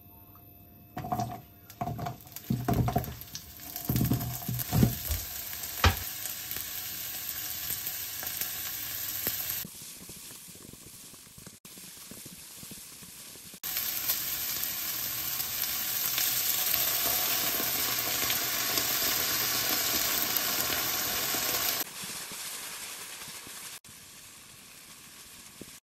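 Sliced sausage and onion stir-frying in oil in a nonstick wok, sizzling steadily. In the first few seconds a quick run of knocks sounds against the pan. The sizzle is loudest in the middle part and drops back near the end.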